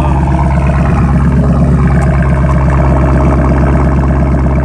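2021 Chevrolet Camaro SS's 6.2-litre V8 running through an MBRP cat-back exhaust as the car is driven, a loud, steady exhaust note.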